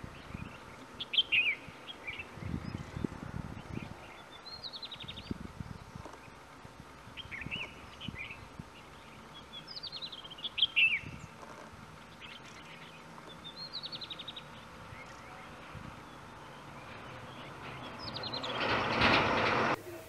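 Birds chirping in short, quick calls that drop in pitch, repeated every second or two. Near the end a rush of noise swells and cuts off suddenly.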